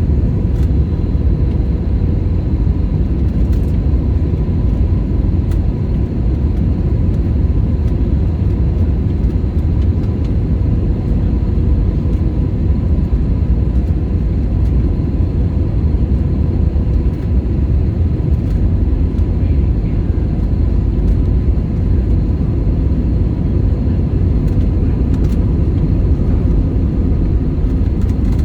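Jet airliner cabin noise: a steady, unbroken rumble of engines and rushing air, with a faint steady hum over it.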